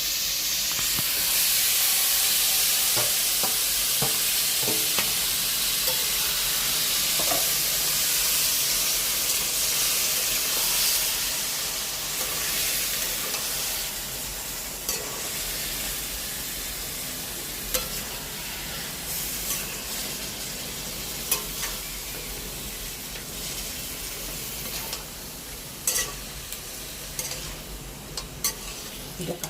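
Chicken pieces sizzling in hot oil with onions and spices, being stirred and fried down (kosha): a steady sizzle that eases off in the second half. Scattered sharp clicks and scrapes of the spatula against the pan come through, more often near the end.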